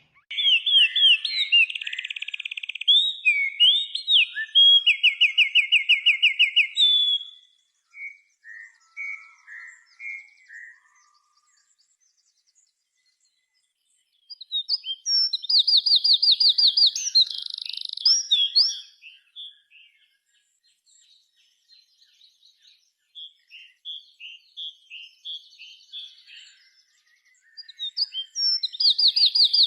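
Songbird singing: high-pitched rapid trills and chirps in several long bursts, separated by short pauses.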